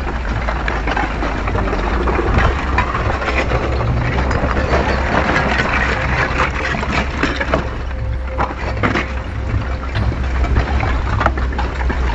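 Erupting volcano at the Geldingadalir vent: a steady deep rumble under dense crackling and cracking, the sound of lava spattering and its crust breaking.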